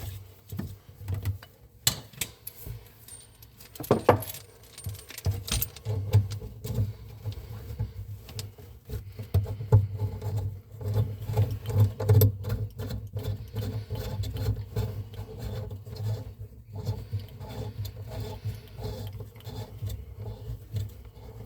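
Small metal tools and plumbing fittings clinking and rattling as they are handled, many short irregular clicks and knocks over a low background hum.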